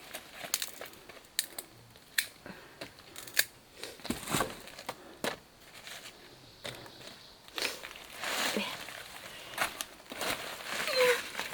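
Irregular snaps, crackles and rustling, typical of dry leaves and plant stems being handled, broken or trodden on, with a denser stretch of crinkling past the middle.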